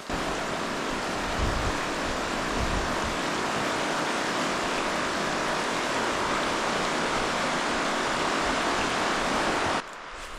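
Steady rushing of river rapids, an even wash of noise that starts and stops abruptly.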